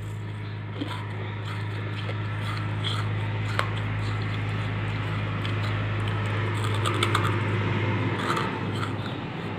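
Close-miked chewing of a crumbly red chalk-like lump: gritty crunching and scraping in the mouth, with a sharper crack about three and a half seconds in. A steady low hum runs underneath.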